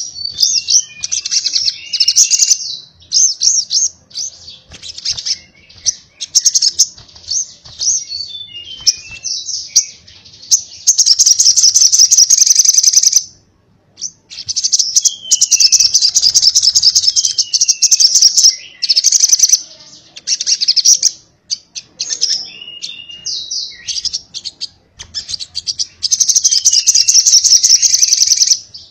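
Sogok ontong (crimson sunbird) singing its fast 'konslet' song: long, high, buzzing trills of about two seconds each, broken by short gaps, quick chip notes and downward-sliding whistles.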